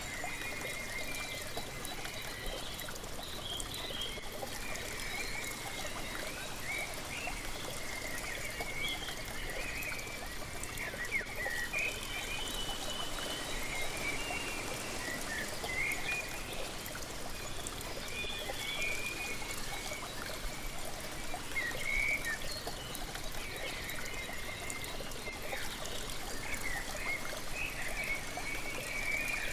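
Waterfall splashing steadily, with small birds chirping and singing in short, quick calls.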